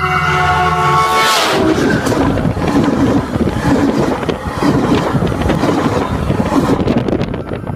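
Metrolink commuter train closing in on a phone at the rail, a steady multi-note horn-like tone dropping in pitch and stopping about a second in. Then the train passes directly overhead: a loud rush of steel wheels on the rail with rapid clicks and clanks, thinning out near the end.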